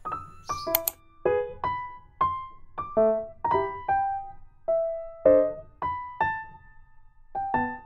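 Background piano music: single notes played one after another at an easy pace, each ringing and fading away, with a short pause near the end.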